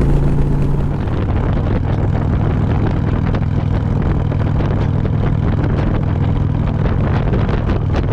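V-twin motorcycle engine running steadily while riding at road speed, with wind rushing over the microphone.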